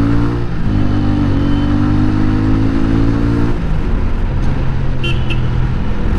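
TVS Ronin 225's single-cylinder engine accelerating through the gears, its revs climbing, breaking at a gear change about half a second in and again at about three and a half seconds, then running steady. About five seconds in, the bike's horn gives two short beeps.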